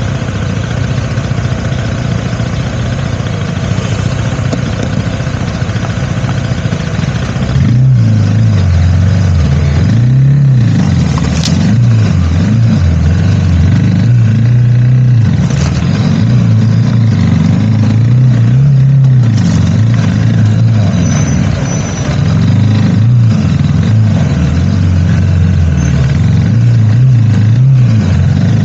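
Motorcycle engine running under way, its pitch rising and falling again and again as the throttle opens and closes, louder from about eight seconds in.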